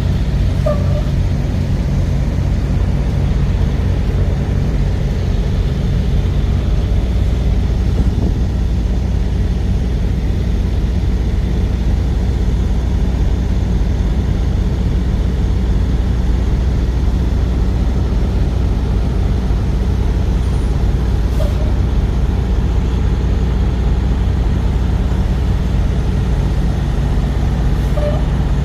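Truck running on the road: a steady low engine drone with road noise, unchanging throughout.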